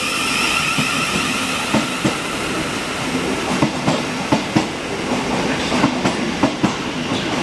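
Class 707 electric multiple unit pulling out of the station, its electric traction running with a faint high steady whine and its wheels clicking over rail joints more and more often as it gathers speed.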